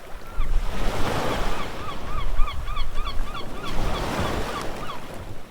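Waves and wind making a loud, steady rush with a low rumble, while a bird calls a rapid series of short rising-and-falling notes, a few per second, through most of it.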